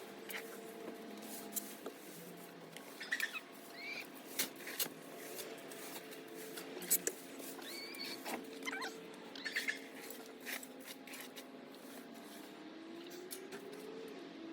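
Chickens giving short chirping calls now and then, with scattered clicks and scratching from birds moving and pecking, over a faint steady low hum.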